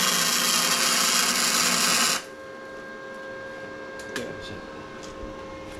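A shop tool runs with a loud, steady, hissing buzz that cuts off suddenly about two seconds in. A few light clicks follow.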